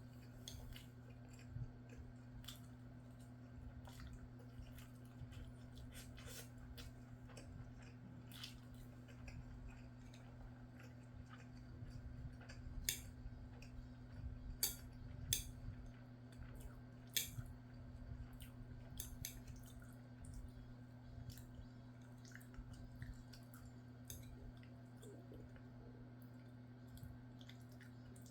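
A person quietly chewing a mouthful of rice and scrambled egg, with scattered small clicks and taps, a few louder ones around the middle, over a steady low hum.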